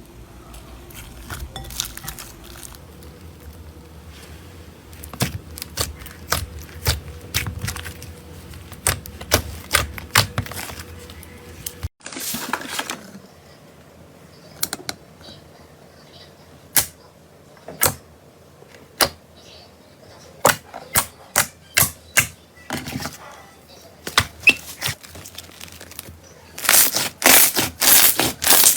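Slime being pressed and poked, giving sharp popping clicks at an uneven pace, breaking into a run of dense, louder crackling near the end.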